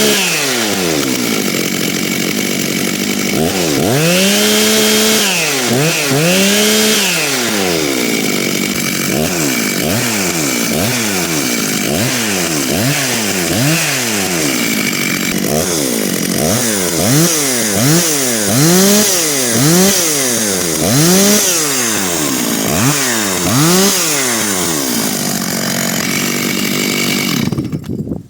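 Large Stihl two-stroke chainsaw being revved repeatedly, a few held revs and then quick blips of the throttle about once a second with the engine dropping back between them. The engine cuts out suddenly near the end.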